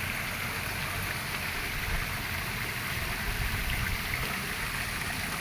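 Steady rush of running water with a low rumble underneath, even and unbroken.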